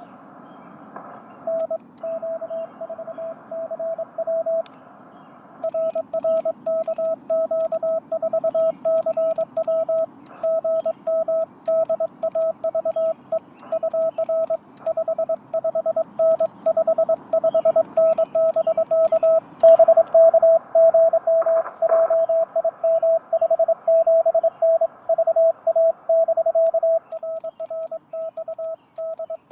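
Morse code (CW) from a Yaesu FT-891 transceiver: one steady mid-pitched tone keyed quickly on and off in dots and dashes over receiver band hiss, with a short pause about five seconds in.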